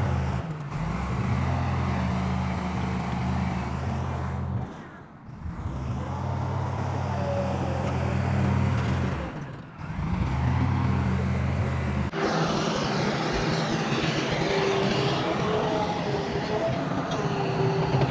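Heavy diesel engine of earthmoving machinery running at a steady speed, dropping away briefly twice. About twelve seconds in, the sound changes abruptly to a different, noisier engine sound.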